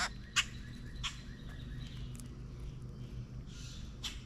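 Wild birds calling, with a few short, sharp clicks or chips, the loudest about half a second in, over a faint steady low hum.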